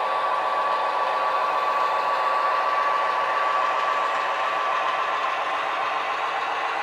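Model trains running on a layout: a steady electric motor whine with the whirr of wheels rolling on the rails. It swells slightly mid-way and eases a little near the end.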